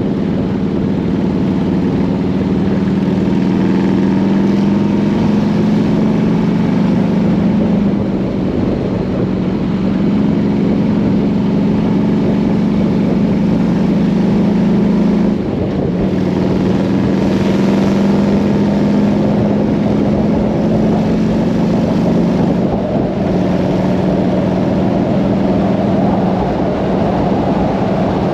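Harley-Davidson Road King's V-twin engine running at road speed under wind rush. Its steady low note breaks off briefly and picks up again three times.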